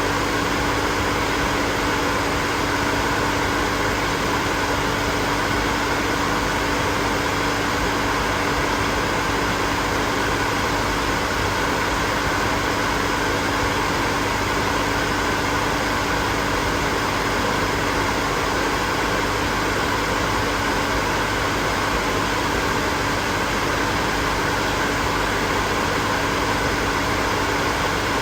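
Hair dryer running steadily: an even rush of blowing air with a steady motor hum under it, unchanging throughout.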